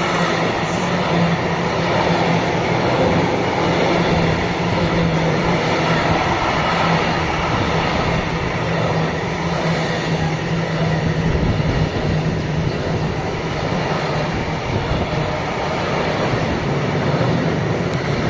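Train hauled by a Vectron electric locomotive rolling past on the track: a steady, unbroken rumble of wheels on rails with a constant low hum.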